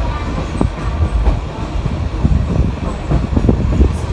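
Narrow-gauge train running on its track: a continuous low rumble with irregular wheel knocks and clatter over the rail joints.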